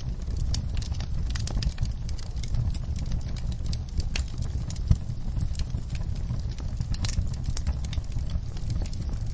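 Wood fire in a fireplace crackling and popping irregularly over a low steady rumble, with one sharper pop about five seconds in.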